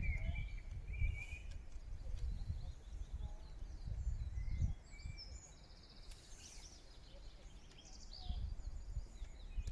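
Small woodland birds singing and chirping, with a short rapid trill in the middle. An uneven low rumble runs under it for about the first five seconds, then drops away.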